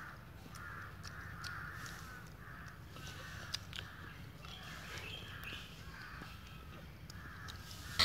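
A bird calling again and again in the background, about twice a second, with a few faint crunchy clicks of green fruit being bitten and chewed.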